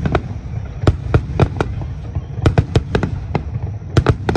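Fireworks finale barrage: aerial shells bursting in quick irregular succession, roughly a dozen sharp bangs in clusters over a continuous low rumble.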